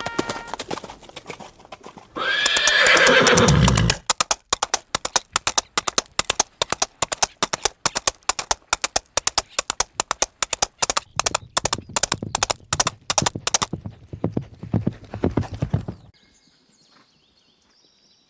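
A horse whinnies loudly, the call falling in pitch, then its hooves clip-clop in a steady rhythm for about twelve seconds before stopping.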